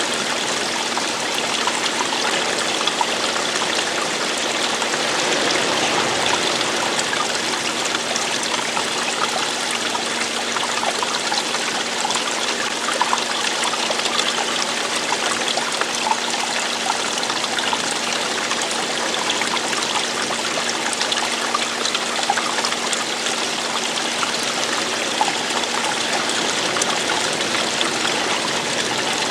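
Steady rush of running water, a stream splashing and falling over rocks, with small splashes scattered through it and no change in strength.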